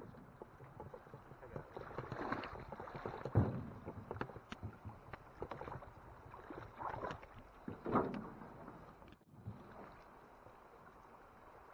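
A canoe being paddled: repeated swishing paddle strokes in the water, with sharp knocks against the aluminum canoe's hull.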